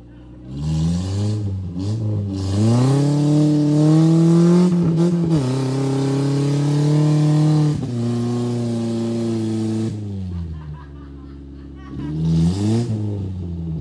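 Off-road 4x4's engine revving hard: the pitch climbs from about half a second in and is held high for several seconds, then drops and dies away near ten seconds. A second short rev comes near the end.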